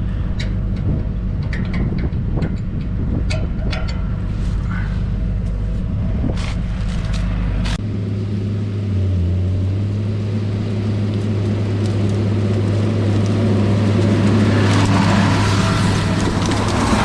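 Case IH Puma tractor's diesel engine running steadily, with scattered clicks and knocks over the first half. About eight seconds in the engine note shifts to a single stronger hum, and a rushing sound builds near the end.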